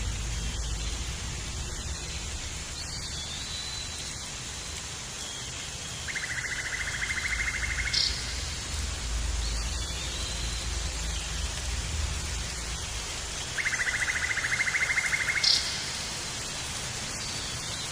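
Steady outdoor hiss with a low rumble of wind on the microphone; twice, about seven seconds apart, a songbird sings a two-second rapid buzzy trill that ends in a short high note.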